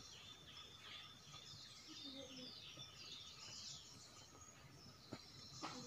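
Faint birdsong: a run of quick, high notes, each sweeping downward, with a sharp click or two near the end.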